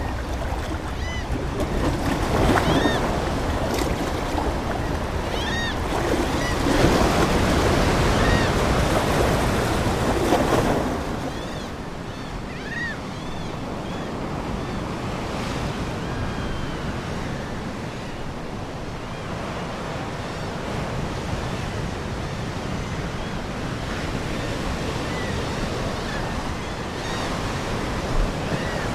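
Ocean surf washing onto a shore, swelling loudest for several seconds early on and then easing to a softer wash. Seagulls call repeatedly over the waves.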